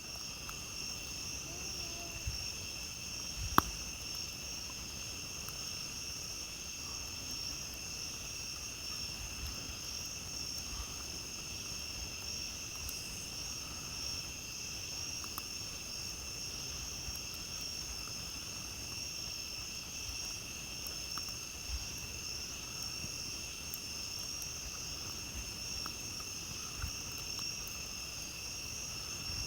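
Steady chorus of night insects trilling at several fixed high pitches, over a low rumble. A campfire gives one loud, sharp pop about three and a half seconds in, with a few faint crackles later.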